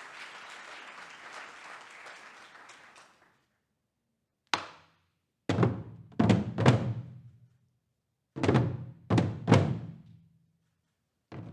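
Applause dies away, then Korean traditional drums are struck with a low ringing tone: one single hit, a group of three hits, another group of three, and quicker strikes starting near the end.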